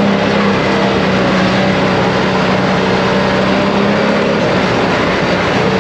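ATV engine running steadily at a constant pace, a steady hum over a rushing noise.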